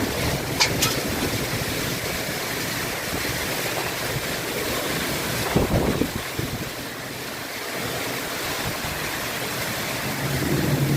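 Rain falling steadily, an even hiss, with a few low rumbles of wind on the microphone.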